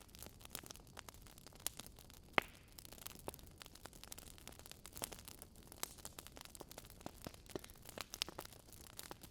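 Burning logs crackling: irregular sharp pops and snaps over a faint steady hiss, the loudest pop about two and a half seconds in.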